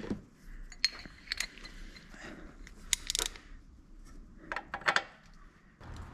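Metal hand tools and engine parts clinking against each other: a series of scattered sharp metallic clicks and taps, with a cluster about three seconds in and another near the five-second mark.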